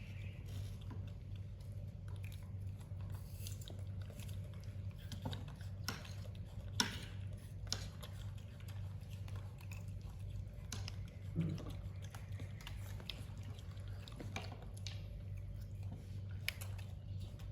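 Small animal chewing and biting food: scattered short crunches and clicks over a steady low hum.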